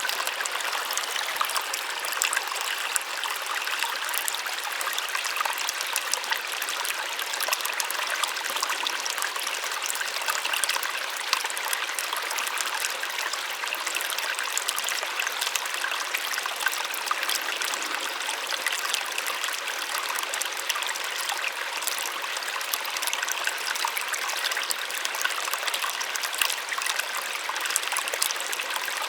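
Small waterfall splashing steadily, a soft even rush of falling water with fine splashes and no deep rumble.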